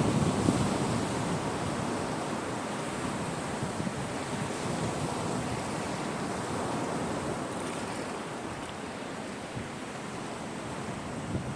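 Caspian Sea waves breaking and washing onto the shore, with some wind. A wave breaks at the very start, then the wash slowly eases off.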